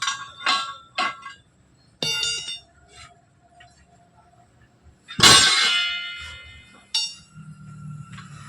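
Hammer blows on a steel truck wheel rim: a series of ringing metallic clangs. There are a few quick strikes in the first second, one at about two seconds, and the loudest about five seconds in, which rings on for over a second before one more strike near seven seconds.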